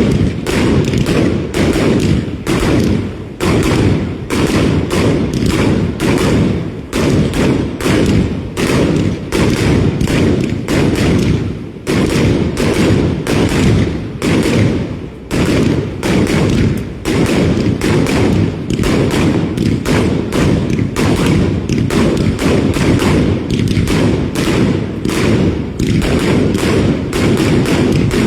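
Fireworks going off in a continuous barrage: a rapid run of bangs and thuds, several a second, that keeps up without a break.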